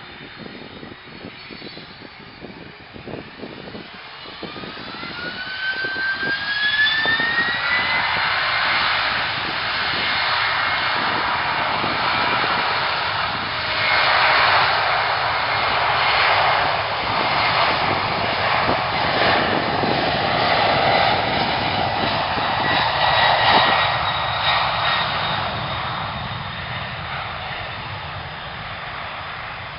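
Jet airliner's engines growing loud as it passes, with a rising whine over the first several seconds, then a steady loud rush that slowly fades near the end.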